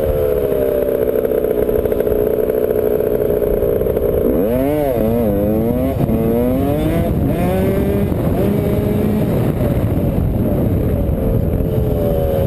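Dirt bike engine running steadily, with the throttle worked up and down several times about four to six seconds in.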